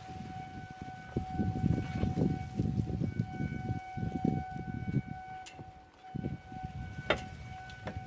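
Mountain bike being ridden on a dirt trail: an uneven low rumble that swells and fades, with a few sharp knocks, over a steady high-pitched drone.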